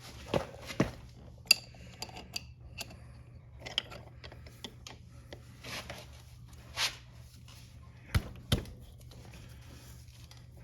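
Scattered metal clicks and clinks, some briefly ringing, from steel hand tools being handled and a chain press tool being backed off on a motorcycle drive chain's master link.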